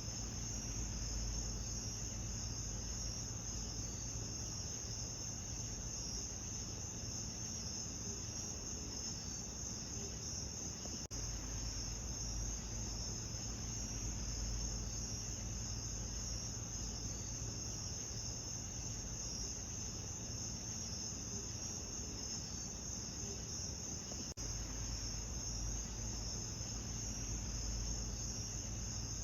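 Steady chorus of crickets chirping without pause, over a low background rumble, with a brief dip about 11 and 24 seconds in.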